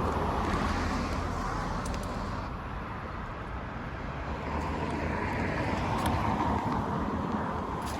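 Road traffic passing: a steady hiss of car tyres and engines that swells as a vehicle goes by about five to seven seconds in.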